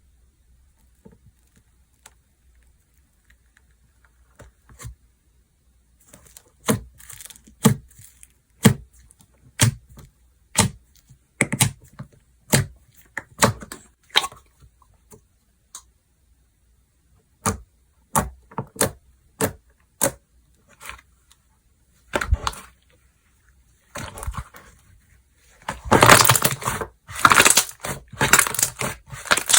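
Slime being squeezed and pressed by hand, giving sharp clicking pops about once a second, then a dense run of crackling near the end.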